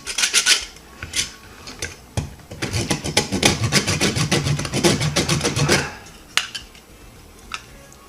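Wood rasp filing a nylon dog chew bone in quick back-and-forth strokes, smoothing off sharp edges left by chewing. A short run of strokes comes at the start and a longer run from about two and a half seconds to about six seconds, with a few single scrapes and knocks in between and after.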